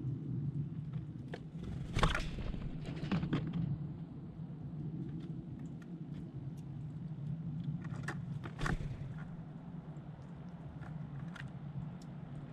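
Birds at a feeding spot tapping and scuffling: scattered small clicks and taps, with louder knocks about two seconds in and again near nine seconds, over a steady low hum.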